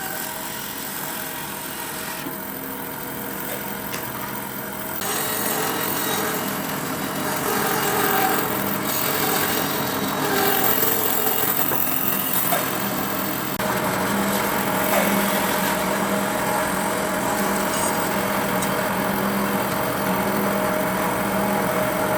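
A power tool working wood, running steadily with a constant whine, getting louder about five seconds in.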